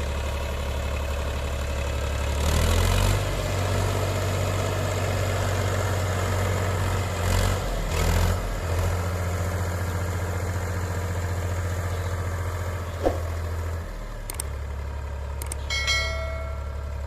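Powertrac Euro 47 tractor's diesel engine running, picking up speed a couple of seconds in, with brief dips in speed. It settles back to a lower idle near the end. There is a single sharp click shortly before it drops to idle, and a short high-pitched tone near the end.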